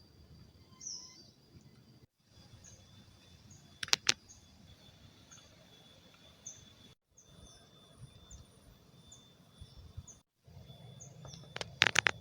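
Forest ambience: short bird chirps repeating about once a second over a steady high insect drone. Two sharp clicks come about four seconds in, and a quick run of clicks near the end.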